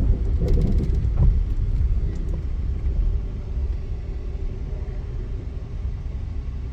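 Amtrak Auto Train rolling along at speed, heard from inside a passenger car as a steady low rumble. A few short clicks come in the first second or so.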